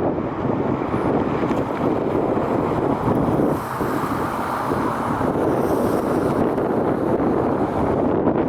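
Jet airliner engines roaring steadily, with wind buffeting the microphone.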